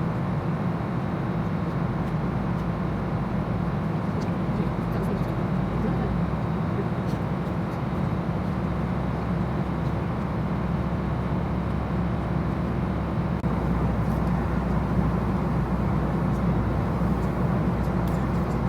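Steady rumble of a moving vehicle, with the deep low hum growing a little louder about thirteen seconds in.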